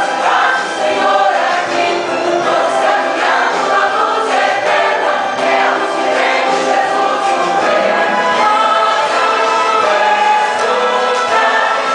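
A choir singing a Christian praise song in sustained, held notes.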